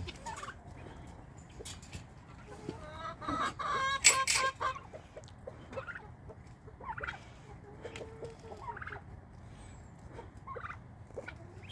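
A mixed flock of chickens, turkeys and guinea fowl calling, with short scattered calls and a louder run of calls about three to four and a half seconds in.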